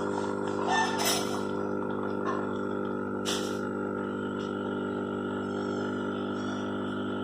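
Espresso machine's pump running with a steady, even hum, with two brief hissing noises about one and three seconds in.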